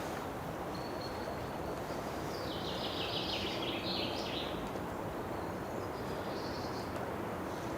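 Steady outdoor background noise with high, thin bird calls above it: a short whistle about a second in, then a louder burst of chattering calls a few seconds in, and a fainter call near the end.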